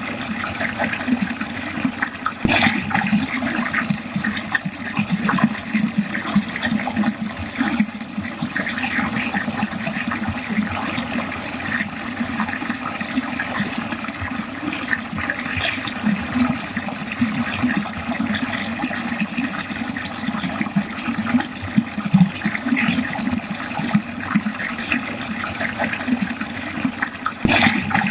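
Water running steadily down a drain, gurgling and splashing continuously, with a brief sharper splash about two seconds in and another near the end.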